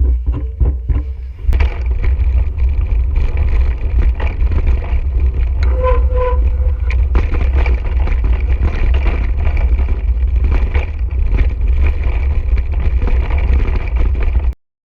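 Mountain bike rolling over a rough desert trail, heard from a camera on the bike or rider: a constant low rumble of wind and tyre noise with frequent rattles and knocks from the bike over rocks. A short two-note squeak sounds about six seconds in, and the sound cuts out briefly near the end.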